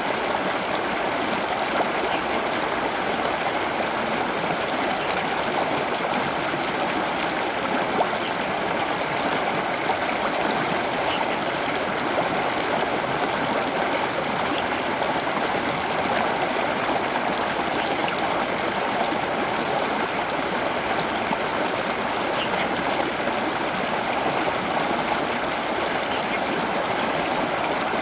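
Running water flowing steadily, like a small stream. A brief faint high note sounds about nine seconds in.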